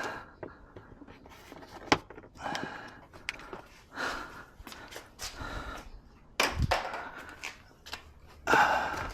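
A man breathing heavily in a small room, several audible breaths, with a few sharp clicks and one louder knock about six and a half seconds in as parts or tools are handled.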